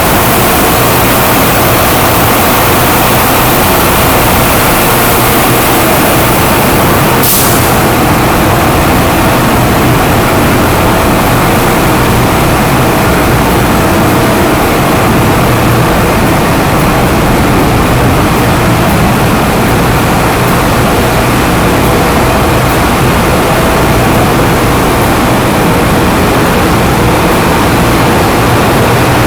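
Loud, steady din of a container ship's engine room: the diesel machinery running continuously with a low hum under a dense roar, and a brief sharp sound about seven seconds in.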